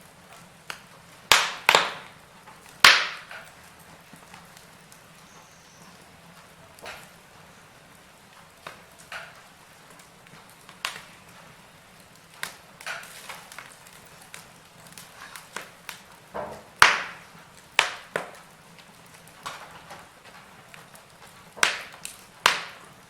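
Wood fire in a fireplace crackling, with sharp pops and snaps at irregular intervals over a low hiss; the loudest pops come about a second and a half and three seconds in, and again near the end.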